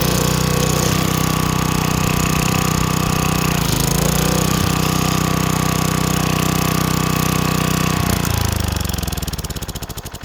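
Small gas engine of a Craftsman wheeled string trimmer running steadily at speed, sagging briefly about four seconds in, then shut off about eight seconds in and winding down to a stop near the end. It runs again after sitting, on a new spark plug, a cleaned carburettor and fresh gas.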